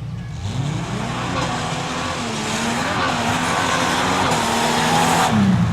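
Tuff truck's engine revving hard, its pitch climbing and wavering, with a rush of noise over it that cuts off sharply about five seconds in.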